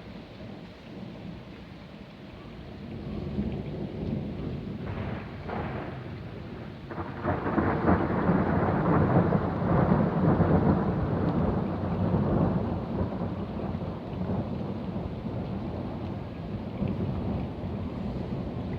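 Rolling thunder with rain falling. The rumble builds from a few seconds in, is loudest a little before halfway, and dies away slowly.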